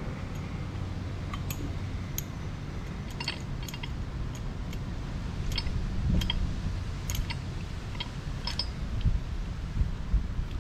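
Scattered light clicks and clinks of tools and metal parts being handled, irregularly spaced, over a steady low hum.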